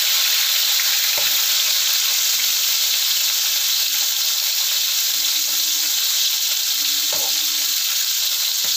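Potato sticks and freshly added chicken pieces sizzling steadily in hot oil in a wok, with a spatula stirring them and scraping the pan a couple of times.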